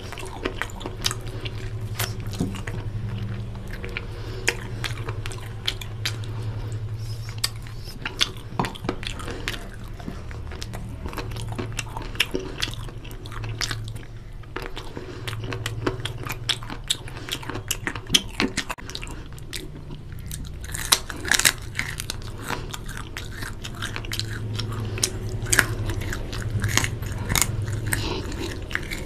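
Close-up mouth sounds of a person biting and chewing meat off a chicken drumstick in curry, with many small sharp clicks throughout.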